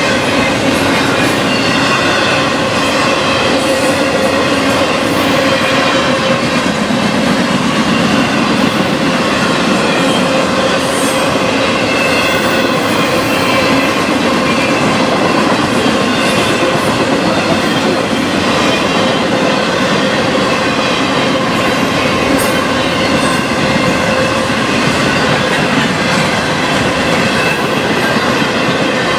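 Freight train cars rolling steadily past on the rails, a loud continuous rumble of wheels with faint steady squealing tones over it.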